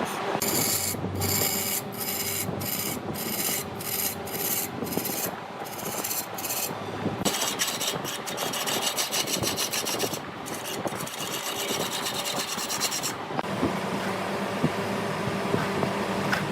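A turning tool cutting into a redwood log spinning on a large wood lathe, making a dry rasping scrape. For the first few seconds the scrape is broken by brief, regular gaps. It eases about 13 seconds in, leaving a steady machine hum.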